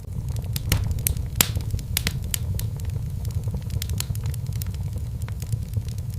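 Fireplace log fire crackling: irregular sharp pops and snaps over a steady low rumble of the flames.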